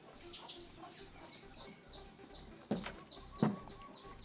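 A bird chirping over and over in the background, a short high chirp about three times a second. Near the middle come two sharp knocks a little under a second apart.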